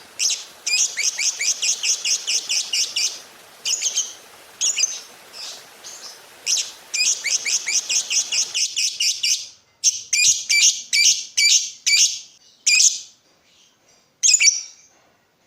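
Lovebird chirping: fast runs of short, high chirps at about five a second. About eight and a half seconds in, the background hiss drops out, and the chirps come singly, roughly two a second.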